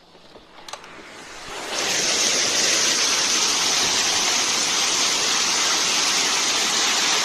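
Heavy storm rain and wind, a loud, steady rush that swells up in under two seconds and then holds.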